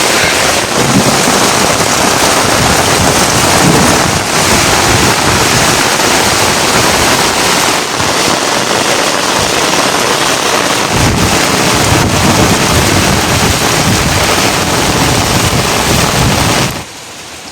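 Heavy rain pouring down in a loud, steady rush that cuts off suddenly near the end.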